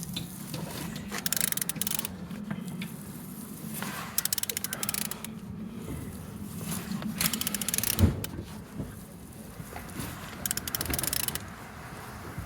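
Ratchet wrench turning a Mercedes-Benz M271 supercharged four-cylinder engine over by hand: four short runs of rapid ratchet clicks a few seconds apart, a single knock about eight seconds in, and a steady low hum underneath. The engine turns freely and builds compression.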